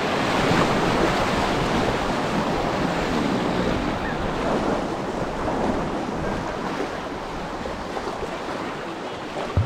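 Steady rush of moving creek water around the kayaks, mixed with wind buffeting the microphone, easing off a little in the second half. A short knock near the end.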